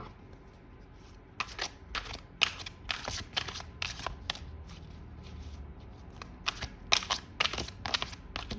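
A deck of tarot cards being shuffled by hand: quick runs of papery flicks and slaps in two spells, the first starting about a second and a half in and the second near the end.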